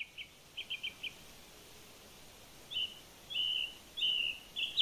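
A small bird calling: two quick runs of high chirps in the first second, then a pause, then four longer, slightly falling high notes from about three seconds in, over faint outdoor background noise.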